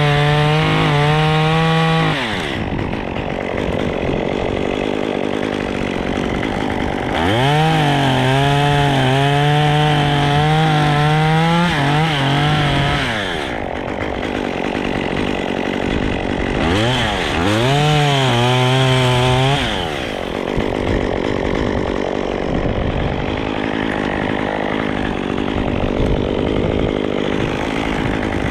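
Two-stroke chainsaw running hard, screaming at full throttle three times with a falling pitch between. In between it gives a rougher, lower sound as the chain works through wood.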